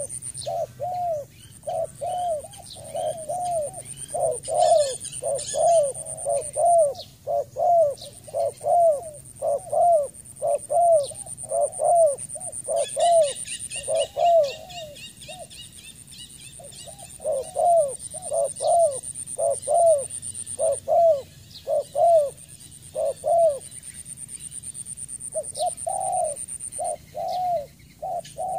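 Spotted dove cooing: a long run of short coos, about two a second, with brief pauses about halfway through and again near the end. Smaller birds chirp in the background, and a steady high-pitched whine comes and goes.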